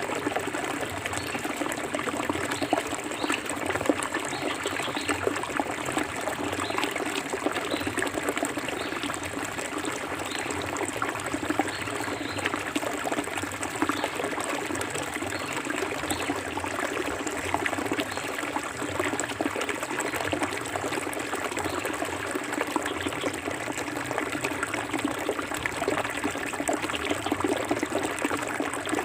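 Clear forest stream flowing steadily over rocks, a continuous babble of small splashes and trickles.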